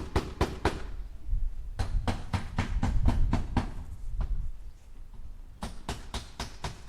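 Hammer driving nails into wood: quick strikes at about four a second, in runs broken by pauses of about a second.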